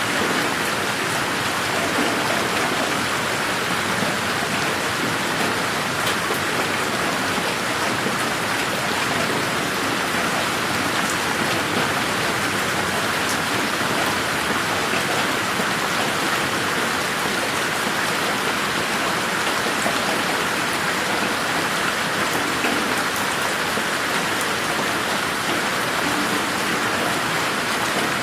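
Steady rain, an even hiss with scattered drop ticks that holds constant throughout.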